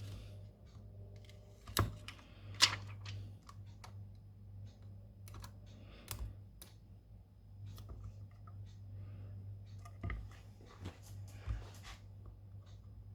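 Irregular small clicks and taps of hand tools working on a smartphone at a repair bench, the two loudest coming about two seconds in, over a steady low hum.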